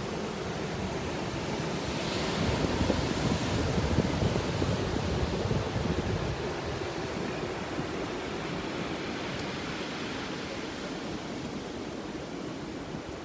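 Ocean surf breaking on a beach, a steady wash of noise. A wave builds and crashes about two seconds in, then the sound eases back over the next few seconds.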